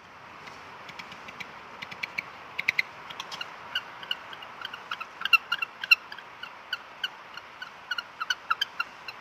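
Penguins calling: many short, high chirps from several birds at once, scattered irregularly over a steady hiss.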